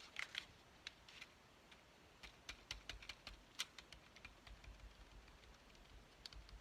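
Faint, scattered light taps and clicks of hand craft work at a table, irregular and a few per second.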